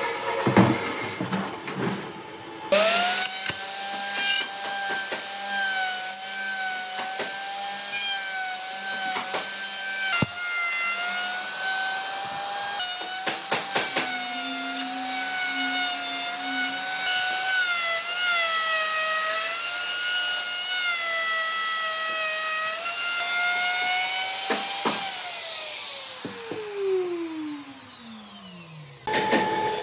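A power tool working on wood, running with a steady whine whose pitch dips and recovers under load. Near the end it is switched off and spins down, its pitch falling steadily.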